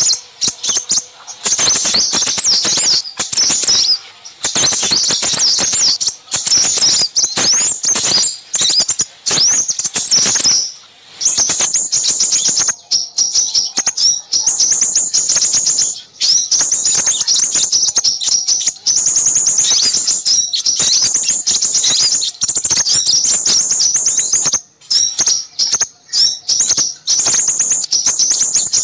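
Busy chattering of small birds: rapid high-pitched chirps and trills in dense runs with short breaks. This is a bird-lure recording meant to attract crimson sunbirds.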